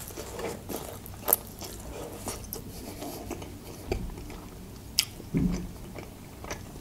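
Close-miked biting and chewing of a crisp lavash pie filled with meat, sausage, cheese and tomato. Soft mouth sounds are broken by sharp crunches, the loudest about a second in and another about five seconds in.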